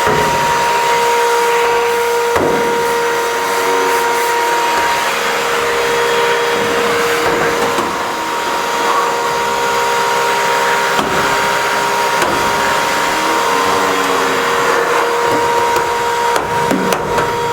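Vacuum cleaner running with a steady whine, pulling dust and dirt out of a return air duct, with a few short knocks along the way.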